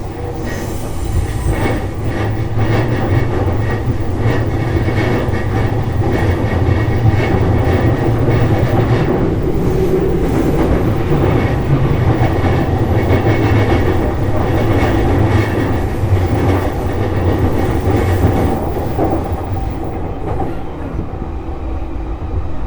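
JR East E233-series electric train running at speed, heard from inside the car: a steady rumble of wheels on rail with clicking over rail joints, easing a little near the end.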